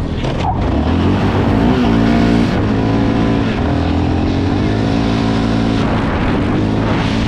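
Yamaha dirt bike engine running close by, its pitch rising and falling a few times as the throttle is blipped.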